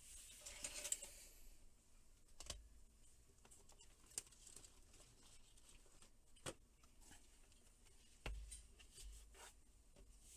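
Faint handling noises: a short rustle, then a few scattered sharp clicks and taps spread a second or two apart.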